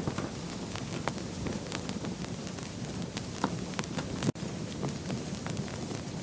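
Wood fire burning in a fireplace: a steady low rush of flames with irregular sharp crackles and pops. A momentary dropout about four seconds in.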